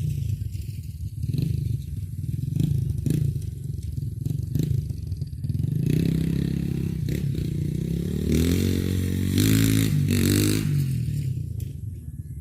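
Chinese 150cc dirt bike's single-cylinder engine being ridden on a trail, revving up and down and pulling hard about eight seconds in. Sharp clatter and knocks run through it.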